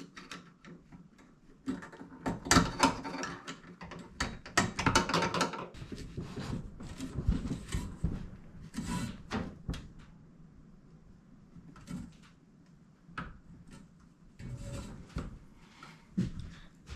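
Hands fitting hoses and pipes onto a portable diesel heater: irregular clicks, knocks and rustling of parts being handled. The noise is busiest in the first few seconds, then thins to a few separate knocks.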